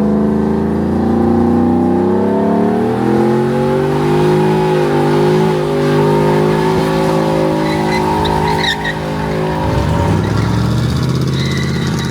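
Car engine revving hard and held at high revs, its pitch wavering up and down, changing to a lower note about ten seconds in.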